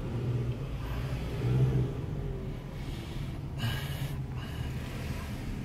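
Car engine and road noise, a steady low rumble, swelling briefly about a second and a half in, with a short hiss around the middle.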